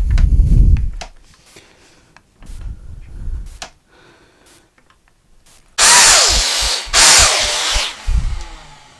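Plunge saw running in two short bursts about six and seven seconds in, each lasting about a second, cutting runner slots in a wooden panel. A heavy low thud comes at the very start.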